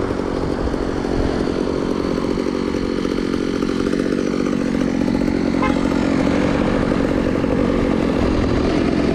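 Motor scooter's small engine running steadily with a buzzing drone while riding.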